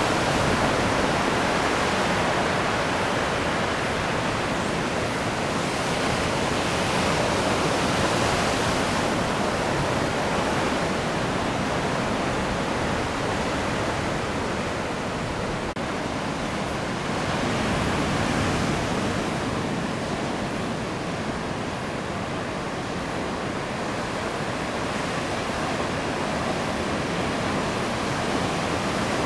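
Heavy surf from a typhoon swell breaking and rushing in a steady roar, growing louder twice as bigger sets come through.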